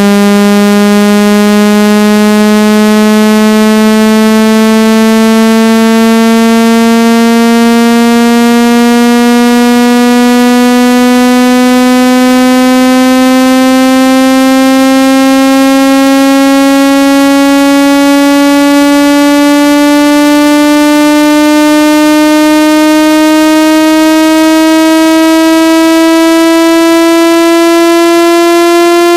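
A loud, buzzy synthesized tone sweeping slowly and smoothly upward in pitch. It is a speaker water-ejection sound, played through a phone or earphone speaker to vibrate trapped water and dust out of it.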